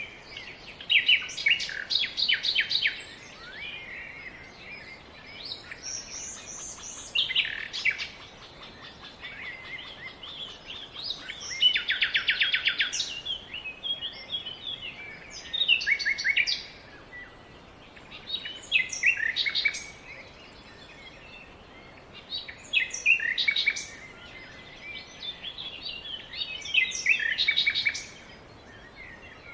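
Songbird singing, repeating a short phrase of quick trilled notes every three to four seconds.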